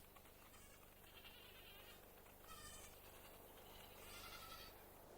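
Goats bleating faintly, three short quavering calls about a second and a half apart.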